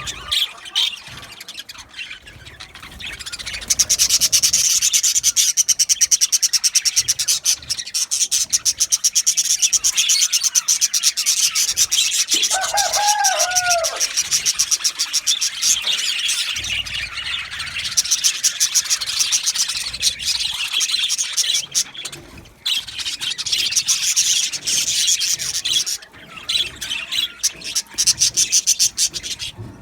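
A flock of budgerigars in an aviary chattering without pause in fast, high-pitched chirps. A lower two-note call stands out briefly about halfway through.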